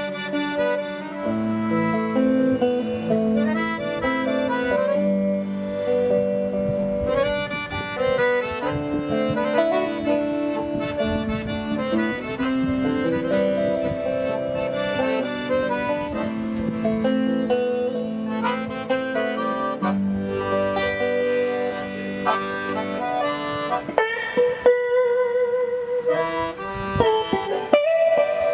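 Accordion and guitar duo playing live: the accordion carries a moving melody over held chords while the guitar plucks an accompaniment.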